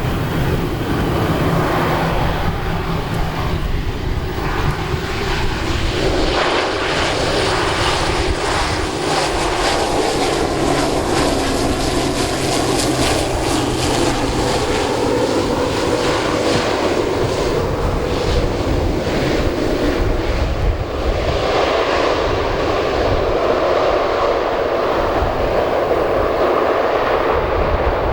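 Turboprop airplane engines and propellers running steadily, with a low hum that shifts down in pitch partway through.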